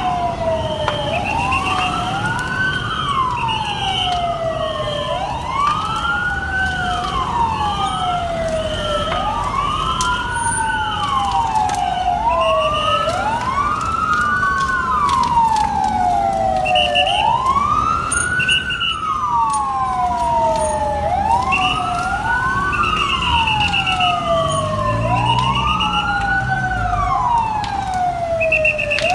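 Several emergency-vehicle sirens wailing at once, each rising and falling about every three seconds and overlapping out of step, with a quick pulsing higher tone over them and a low engine and traffic rumble beneath.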